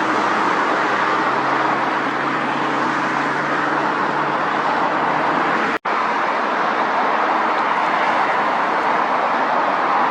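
Steady, dense roar of engine and traffic noise. It drops out completely for an instant a little past halfway, then carries on unchanged.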